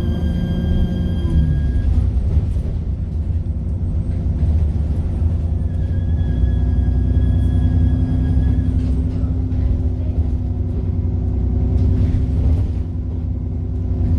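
Diesel engine of First South Yorkshire bus 33712 (SN12 AJO) heard from on board: a deep steady rumble with a high turbo whine over it. The whine fades out about two seconds in and comes back for a few seconds around the middle.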